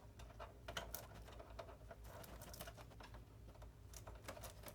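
Faint, irregular light clicks and taps from handling small parts and tools on a partly disassembled PS5 console, over a low steady hum.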